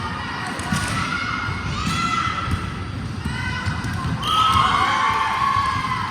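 Gym noise at a youth volleyball match: many overlapping young girls' voices calling and shouting, over the thuds of volleyballs hit and bouncing on the floor. The shouting gets louder about four seconds in.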